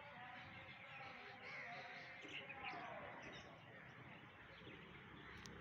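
Faint chirping and calling of small wild birds, with a few quick falling calls about two to three seconds in, over faint distant voices.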